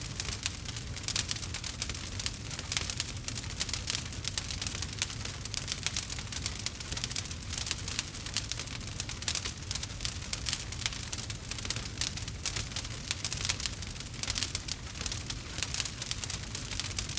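Campfire crackling: a dense, irregular run of small pops and snaps from burning wood over a steady low rumble.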